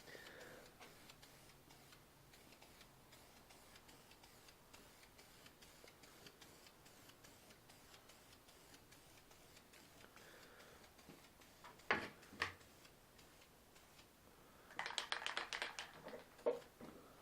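Faint steady ticking, then two sharp clicks and, near the end, a quick run of rattling clicks from an aerosol spray-paint can being shaken.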